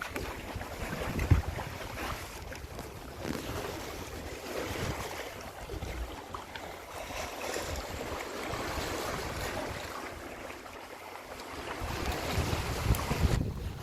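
Wind buffeting the microphone over the rush of water along the hull of a Comfort 30 sailboat under sail. A sharp gust hits about a second in, and the wind is louder again near the end.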